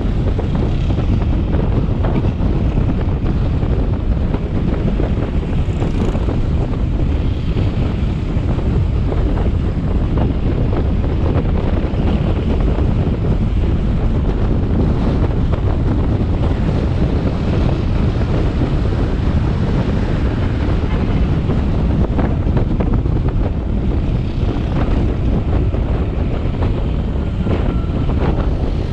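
Steady wind noise buffeting the action camera's microphone on a moving motorbike, with the bike's engine and road noise underneath.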